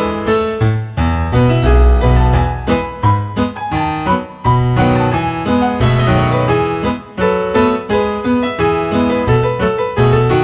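Background piano music: a steady stream of quick notes over a moving bass line.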